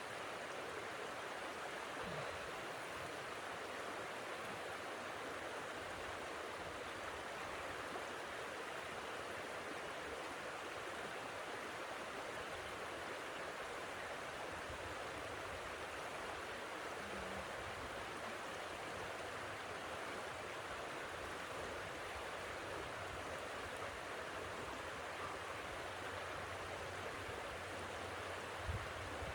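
Blizzard wind rushing steadily, an even hiss with no distinct gusts.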